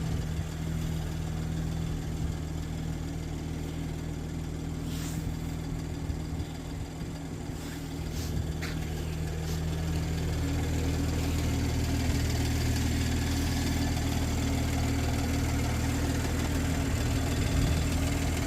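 BMW M340i's turbocharged in-line six idling steadily while still warming up from a cold start. It gets a little louder about ten seconds in, with a few faint clicks near the middle.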